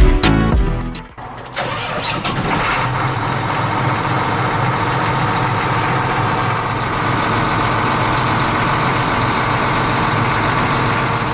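Miniature diesel engine starting up about a second and a half in, then running steadily.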